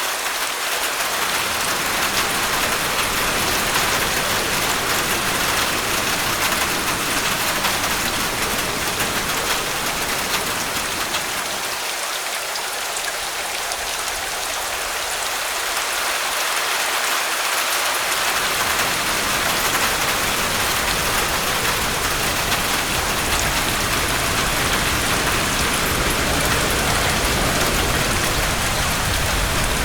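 Heavy rain falling steadily, a dense even hiss of drops. A deeper low rumble under it drops away for a few seconds in the middle and returns for the second half.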